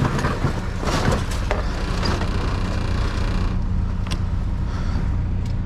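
Vehicle engine idling steadily, with rustling, crackling and clicking from trash being handled that dies down after about three and a half seconds, leaving a few clicks.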